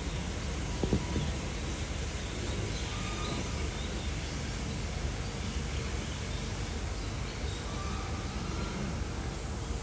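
Steady outdoor background noise with faint bird chirps and a brief double knock about a second in.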